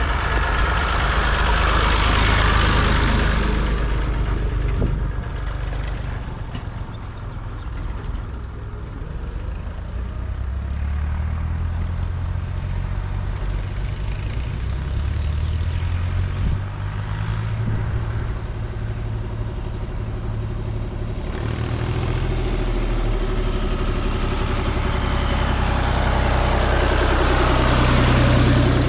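Vintage tractor engines running as tractors drive past in a line, one passing close and loud about two seconds in and another near the end, with engines chugging further off in between.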